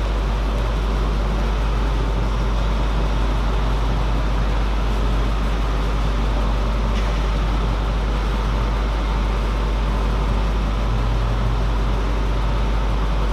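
Steady low hum under an even hiss of background room noise, with a couple of faint brief clicks.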